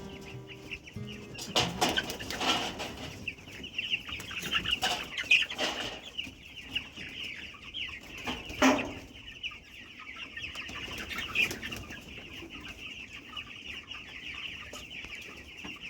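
Chickens clucking, with scattered short calls and a few sharp peaks, over a steady high-pitched chirring.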